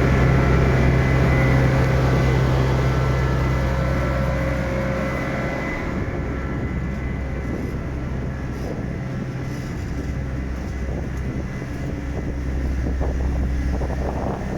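A heavy truck's diesel engine running steadily at idle, a little quieter after about five seconds and louder again near the end.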